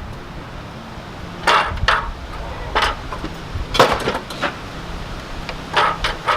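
Wooden spindle and hand tools being handled on a workbench: a string of sharp knocks and clatters, about seven in all, over a low steady hum.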